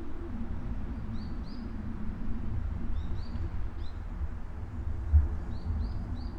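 Small birds chirping in short high notes, in little groups of two or three, over a steady low rumble.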